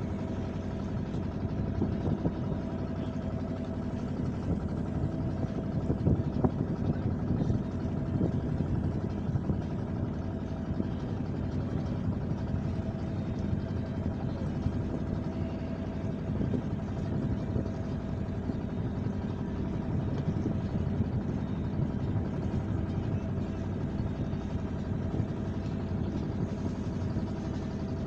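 An engine running steadily: a constant drone with several fixed tones, never changing in speed.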